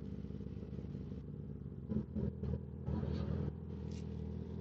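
Kawasaki ZX-10R sport bike's inline-four engine running steadily at low revs, with a few short louder sounds about two and three seconds in.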